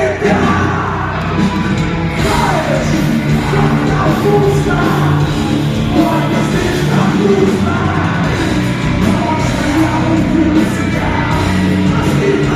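A rock band playing a song live, with a singer's sung and shouted vocals over the band.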